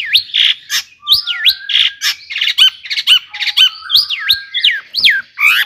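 Long-tailed shrike (cendet) singing: harsh squawking notes, several a second, then from about a second in a fast run of whistled notes sliding up and down, mixed with chattering mimicked phrases.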